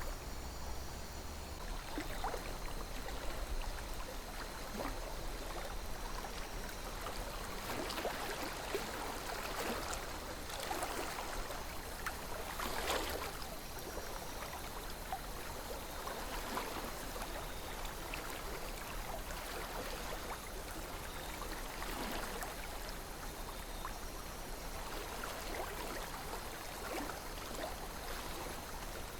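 River water flowing gently, a steady rush with small splashes and gurgles throughout.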